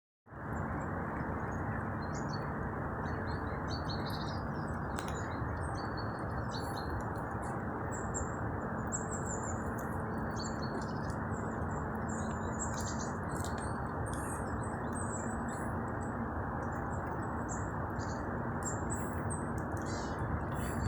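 Tits giving short high chirps and calls in quick scattered bursts over a steady low rushing noise.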